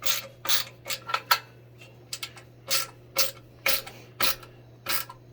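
Irregular series of short clicks and clatters of hard parts being handled, about a dozen over a few seconds, over a faint steady hum.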